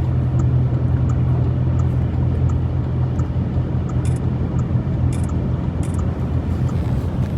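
A vehicle's engine and road noise heard from inside the cabin as it moves through a flooded street, a steady low hum with a faint regular ticking over it.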